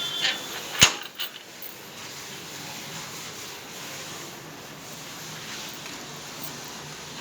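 A few short clicks in the first second or so, the loudest a single sharp click about a second in, then only a faint steady background hiss.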